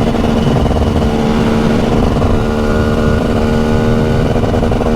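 TM SMR 300 supermoto's 300cc two-stroke single-cylinder engine running at a steady engine speed, its pitch holding level throughout.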